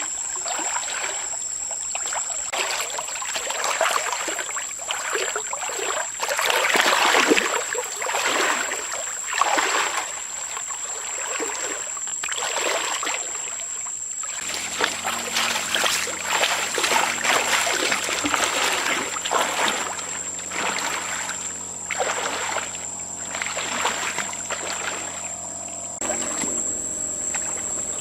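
Water splashing and sloshing in irregular surges, with a steady low hum that comes in about halfway through.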